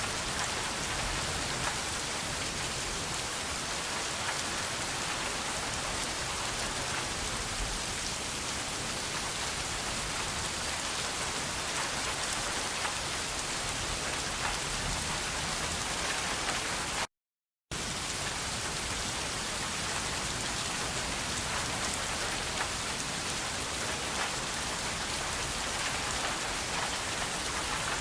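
Steady rain falling, an even dense hiss of many drops landing on a surface. It cuts out to total silence for about half a second a little past the middle, then resumes unchanged.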